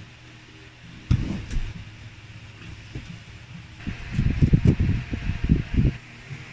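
Low, irregular thumps and rustling: a short burst about a second in, then a longer cluster from about four to six seconds in, over a steady low hum.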